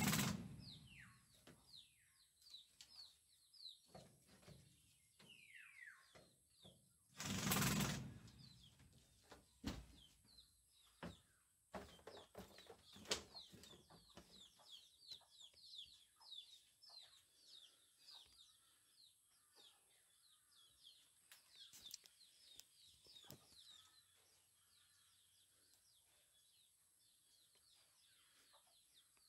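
Small birds chirping over and over in short falling notes, with a faint steady high whine behind them. Two short loud rustling noises, one at the start and one about seven seconds in, and a few light knocks around the middle.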